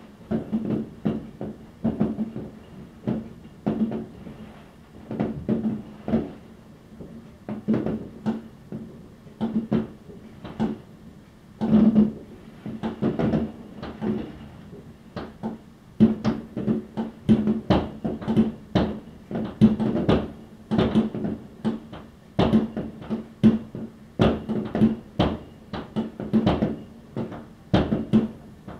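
New Year's Eve fireworks going off in quick, irregular succession: a steady run of sharp bangs and cracks from rockets and firework batteries, each with a short low ring after it.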